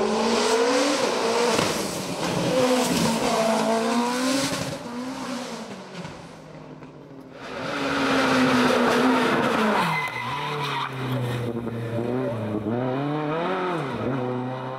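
Hillclimb race car engine at full throttle, its revs climbing and dropping again and again with the gear changes and corners. The sound fades about six seconds in, comes back loud, and then a lower engine note swings up and down toward the end.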